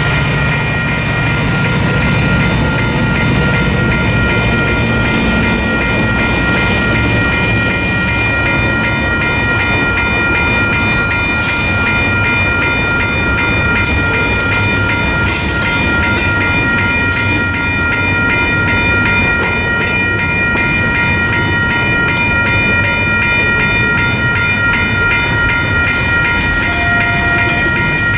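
Double-stack intermodal container train rolling past on well cars: steady rumble of wheels on rail with clacking over the joints, and a steady high-pitched ringing tone throughout. A deeper engine rumble from the passing locomotives dies away in the first several seconds.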